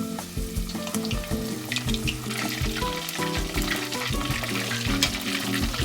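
Cornstarch-battered chicken drumettes frying in hot oil in a deep pan, a steady sizzle full of sharp crackles and pops, with background music playing.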